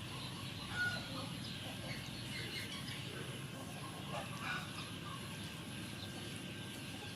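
Chickens clucking and small birds chirping, short scattered calls over a steady background noise.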